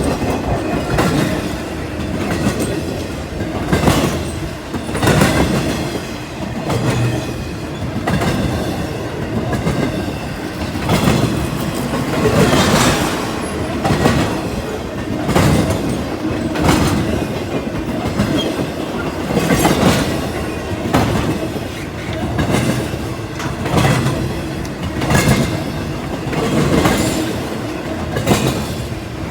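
CSX freight train rolling past, its wheels clacking over rail joints in a steady rhythm of about one clack every second and a bit, over a continuous rumble.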